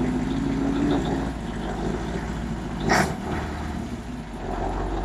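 Scania 140's V8 diesel engine running at idle, with one sharp knock about three seconds in.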